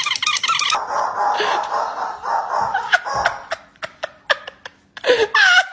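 A fast run of repeated high squeaky chirps cuts off under a second in. It is followed by a hissing rustle, a few sharp clicks, and near the end a dog's loud short barks that fall in pitch.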